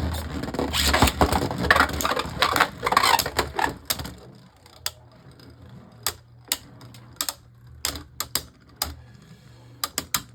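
Two Beyblade Burst spinning tops, Harmony Pegasus and Lord Spryzen, clashing in a plastic stadium: a dense rattle of collisions and scraping for about four seconds, then scattered single sharp clicks.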